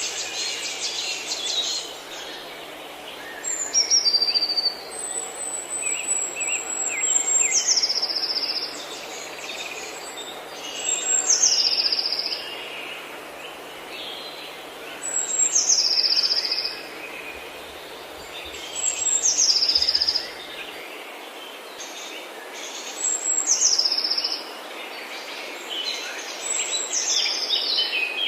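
Forest birds singing. One bird repeats a high whistled phrase that holds and then drops in pitch, about every four seconds, while other birds chirp underneath.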